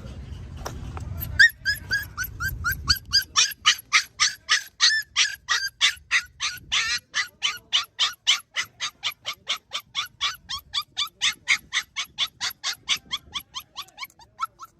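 A puppy yipping over and over in short, high-pitched barks, about four a second, in a long unbroken run that starts about a second and a half in and continues until near the end.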